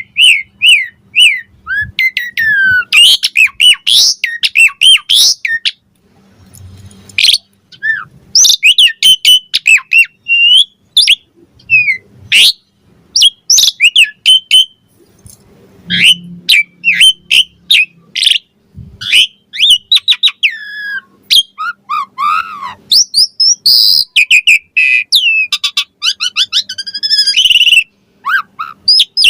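Asian pied starling (jalak suren) singing: a fast, varied run of whistles, chirps and harsh squawks in phrases broken by short pauses.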